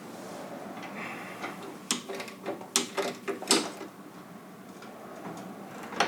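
Sharp clicks and clacks of tools and parts being handled during hands-on repair work on a skid steer's hydraulics, bunched in a quick run about two to three and a half seconds in.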